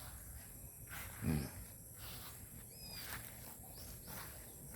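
Carabao (water buffalo) drinking from a bucket: faint slurps and splashes repeating about twice a second. A brief louder low-pitched sound comes a little over a second in, and a short high chirp near three seconds.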